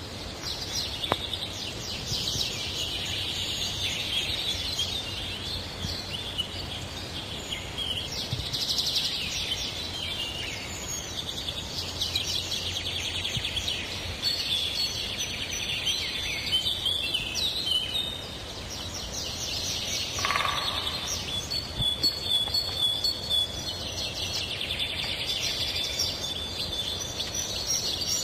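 Many birds singing and chirping together, their calls overlapping in a dense, continuous chorus.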